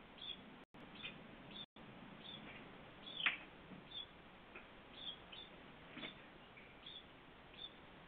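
A small bird chirping: short, high chips repeating every half second to a second, with one louder note about three seconds in that drops steeply in pitch. The audio cuts out for an instant twice near the start.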